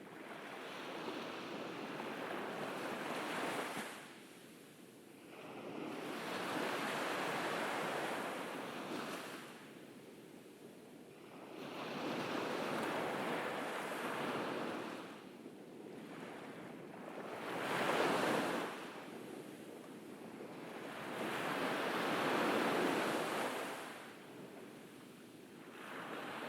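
Ocean waves breaking and washing up a beach, a rising and falling rush that swells about every four to five seconds, with the sharpest break about two-thirds of the way through.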